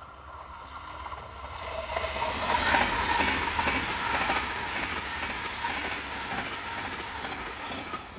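A train passing at close range, building to its loudest about three seconds in, with a repeated clickety-clack of wheels over rail joints.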